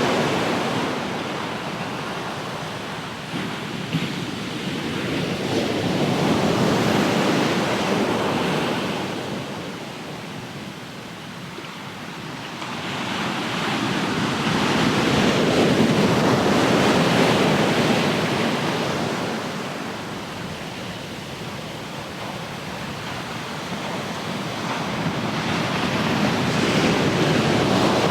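Ocean surf washing in and receding, a steady rush of water that swells and fades in slow surges several seconds apart.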